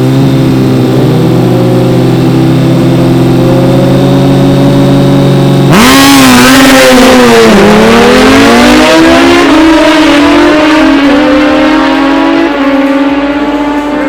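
Drag-racing engines held at high revs on the line, then about six seconds in a sudden, much louder launch. The pitch dips, then climbs in steps through gear changes as the vehicles accelerate away.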